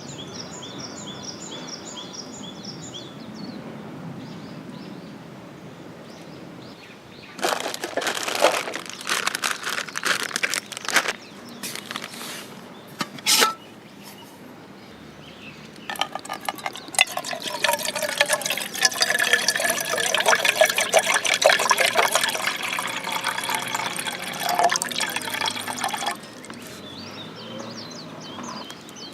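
Liquid being poured into a container in two spells, the first about seven seconds in and the longer one from about sixteen seconds in. A bird chirps a quick run of repeated high notes at the start.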